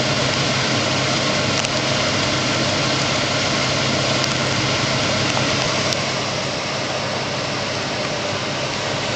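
Scratch-built twin-cylinder Robinson-patent hot-air engine running steadily on one cylinder, its other cylinder disconnected, with an even hiss and a constant low hum. The sound drops slightly about six seconds in.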